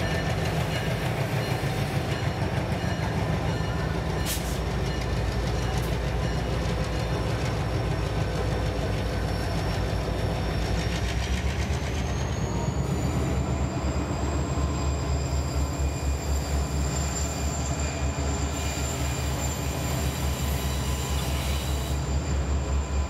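A passenger train's cars rolling slowly past on a curve: a steady, rhythmic low rumble from the wheels and trucks, with a thin high wheel squeal that rises in pitch about halfway through.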